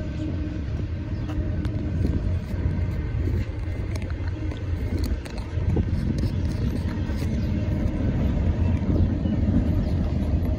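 Intermodal freight train of double-stack containers and trailers rolling past: a steady low rumble of wheels on rail, with scattered faint clicks.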